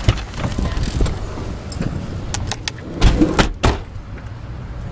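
Car cabin road noise while driving: a steady low rumble, with a few sharp knocks or clicks about three seconds in.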